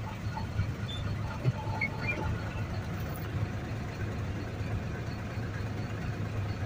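Steady low rumble of truck engines running while trucks creep forward in a ferry boarding queue, with a few faint small clicks.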